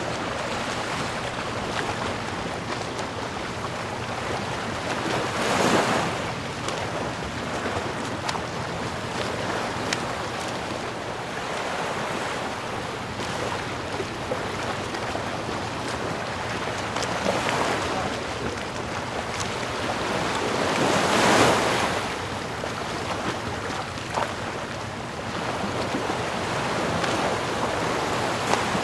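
Sea waves breaking on a shore, a steady wash with a louder wave surging in about six seconds in, another around seventeen seconds and the loudest about twenty-one seconds in.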